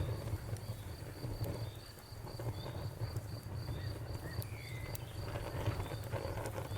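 Wood fire crackling, with scattered sharp pops over a steady low rumble, while crickets chirp in the background at about four chirps a second.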